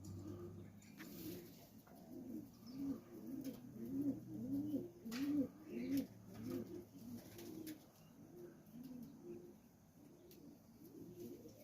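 Several domestic pigeons cooing over one another, low rounded coos repeating without pause, with a few sharp clicks or taps among them.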